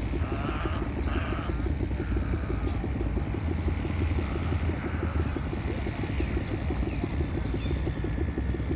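Forest river flowing with a steady low rumble, while songbirds call briefly over it, mostly in the first couple of seconds and again near the middle.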